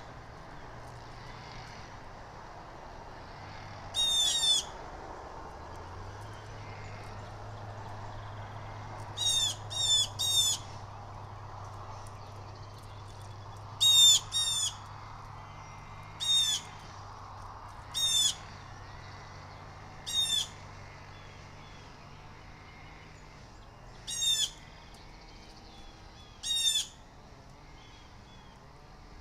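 Blue jays calling over and over with short jay calls, singly or in quick runs of two or three, every few seconds. This is typical of jays mobbing the hawks at the nest.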